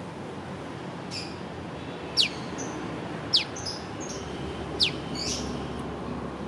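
Prenjak lumut (olive-backed tailorbird) calling "piw": three sharp whistled notes, each sliding quickly down in pitch, spaced a second or so apart, with fainter bird chirps between them.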